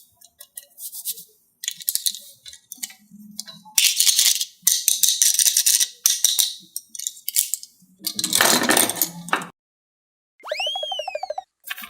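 Small hard toys rattling and clattering in repeated bursts as they are handled, with a short electronic tone that rises and falls in pitch about ten seconds in.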